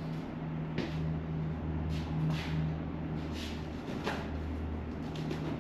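Steady low hum of shop background noise, with a few faint clicks and scrapes of hands handling tools and parts.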